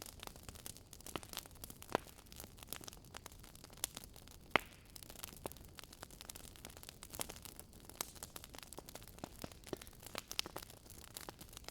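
Wood fire burning in a fireplace, crackling and popping irregularly over a low hiss, with one louder pop about four and a half seconds in.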